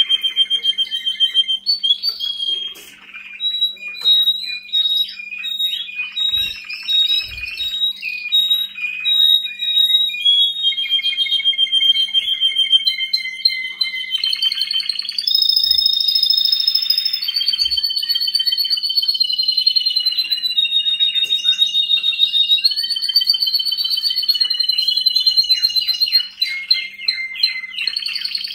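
Domestic canary singing a long, continuous song of rapid trills and rolling runs of high whistled notes, switching phrase every few seconds and pitched higher in the second half.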